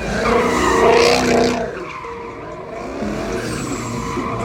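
A car's tires squealing under a burnout or skid, with the engine revving. The squeal is loudest in the first second and a half, then goes on more steadily.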